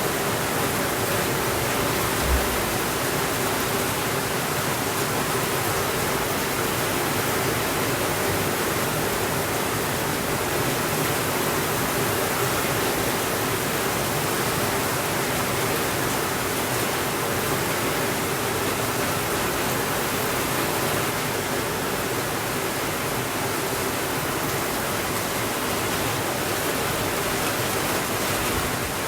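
Steady rainfall, an even rushing hiss with no change in level, with one brief soft low thump about two seconds in.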